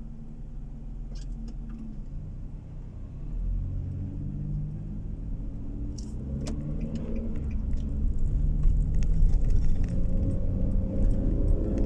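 Car engine and road noise heard from inside the car, the engine note climbing steadily and growing louder from about three seconds in as the car accelerates. A few short sharp clicks sound along the way.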